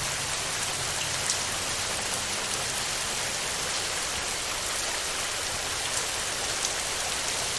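Heavy rain falling on a tin roof: a steady hiss with a few sharper single drop hits.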